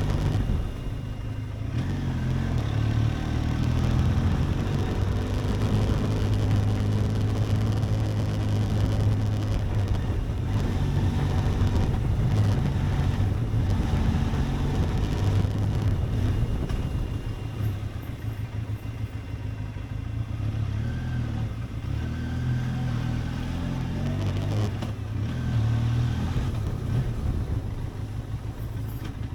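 Benelli TRK 502X motorcycle's parallel-twin engine running while riding, its note rising and easing off several times.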